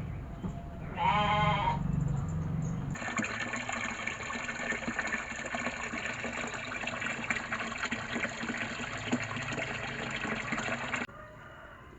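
A single short bleat about a second in, then water gushing steadily onto tomato plants for about eight seconds before cutting off suddenly.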